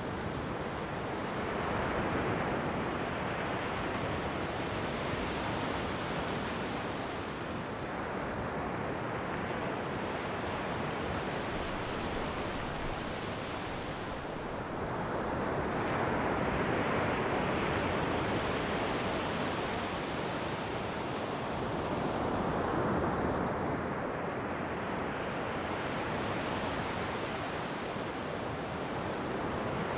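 Ocean waves breaking and washing up a shore: a steady rush of surf that swells and eases every few seconds.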